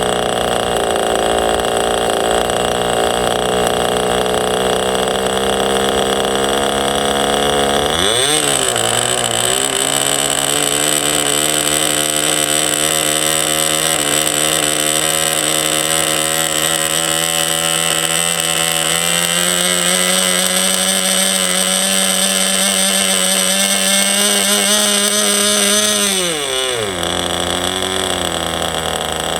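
Enya .15CX 2.45 cc two-stroke glow engine running. About eight seconds in it is opened up to high revs, with a steady high whine, and held there; near the end it is throttled back to a lower speed.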